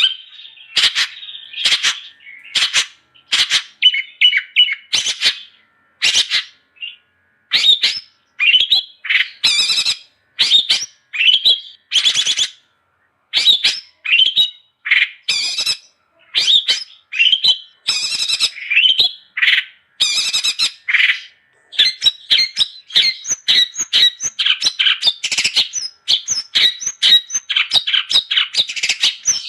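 Long-tailed shrike (cendet) singing energetically: quick runs of harsh, squawky and chattering notes in short bursts with brief pauses. The notes come faster and almost without a break in the last third.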